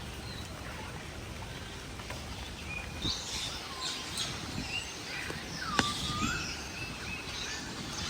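Several birds calling, with short chirps and whistled notes that slide up and down in pitch, mostly from about three seconds in, over a steady low background hum. One sharp click a little past the middle.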